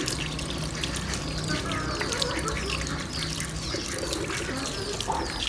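Many small birds chirping in quick, short falling calls, over a faint trickle of water and a low steady hum.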